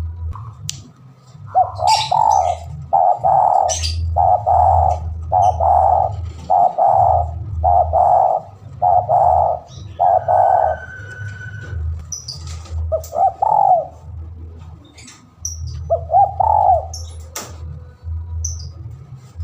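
Spotted dove (tekukur) cooing in a quick run of about ten notes, one a second, then pausing and giving single coos, over a low hum. Faint high chirps from small birds are heard in the background.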